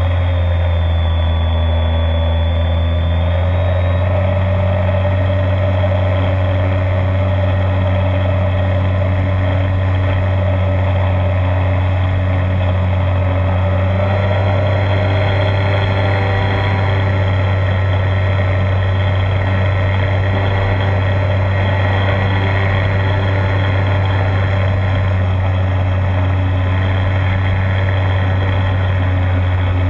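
Electric motor and propeller of a radio-controlled DHC-2 Beaver model plane running steadily in flight, heard from inside the fuselage, with a steady low hum and small shifts in pitch about 4 s and 14 s in as the throttle changes.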